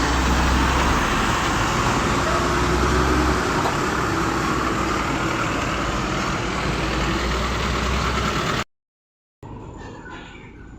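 Road traffic: motor vehicles running close by, a loud steady rushing noise over a deep low rumble. It cuts off abruptly near the end, and after a brief silence a much quieter scene follows.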